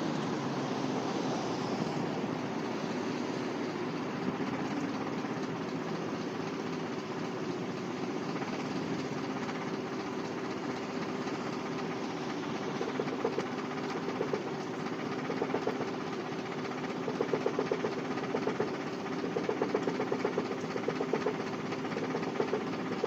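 Saab 9000's 2.0-litre turbocharged four-cylinder petrol engine idling just after a first start from five years standing. It runs rough, and from about halfway through an uneven pulsing comes in, which the owner suspects is misfiring.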